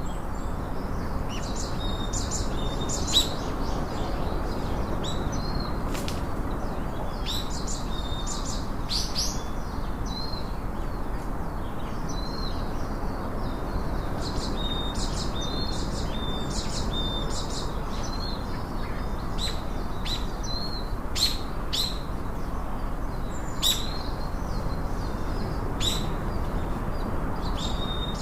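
Small birds chirping and calling in quick, short notes, some sweeping down sharply and some holding a brief high note, repeated throughout over a steady background hiss.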